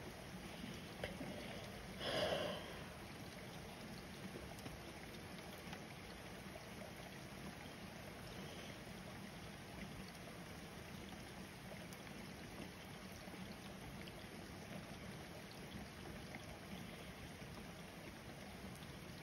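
Steady rain falling on a wet street and cars, a faint even hiss. About two seconds in, a brief louder sound stands out over it.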